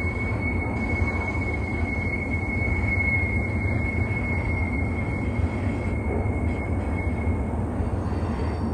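Double-stack intermodal freight train rolling past: a steady rumble of wheels on rail, with a thin, steady, high-pitched wheel squeal that stops about seven seconds in.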